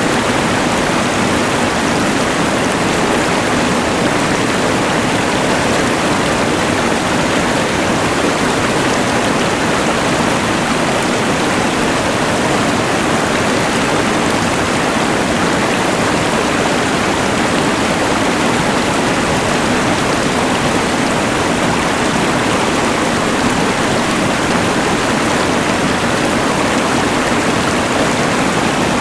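Rushing mountain river blended with the hiss of a LectroFan white noise machine, a steady, unchanging wash of noise.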